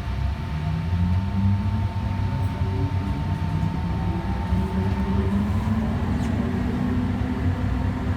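Electric light-rail train accelerating away from a station, heard from inside the car: the traction motors whine with a pitch that rises slowly and steadily, over a low rumble of wheels on rail.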